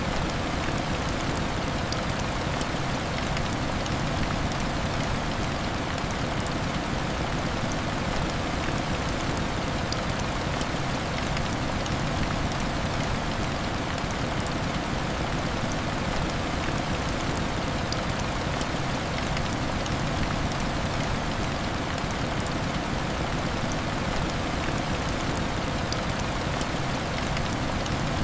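Heavy rain falling steadily against a window: an even wash of noise scattered with many fine drop ticks.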